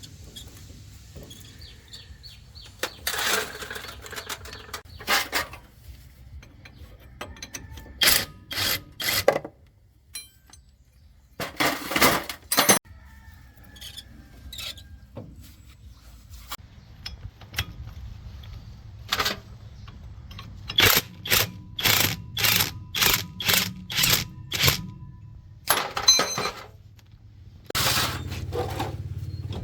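Metal tools clanking and knocking on truck axle parts, including a run of about ten evenly spaced metal strikes, about two a second, in the later part. A low steady hum runs underneath in the second half and grows louder near the end.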